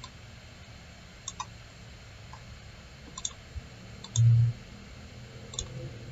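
Computer mouse clicking, mostly in quick double clicks, four times over the few seconds. About four seconds in, a short low hum is louder than the clicks.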